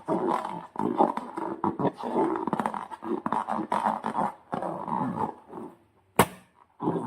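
Slime being squeezed and worked by hand: continuous wet squelching and crackling that dies away, then one sharp crack about six seconds in.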